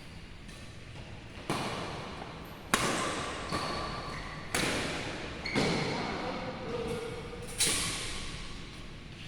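Badminton rally: rackets striking the shuttlecock about five times, roughly a second apart, each hit echoing around a large sports hall. Short squeaks from shoes on the court come between the hits.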